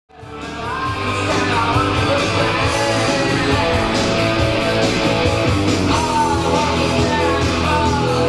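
Rock music with electric guitars and a singing voice, fading in over the first second and then playing steadily.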